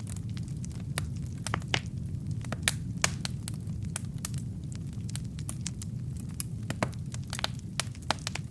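Logs burning in a fireplace: a steady low rumble of flame with irregular sharp crackles and pops, a few of them much louder snaps.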